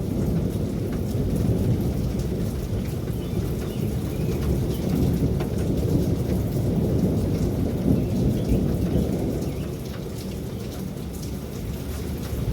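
Steady rain falling, with a long rolling rumble of thunder underneath that eases a little near the end.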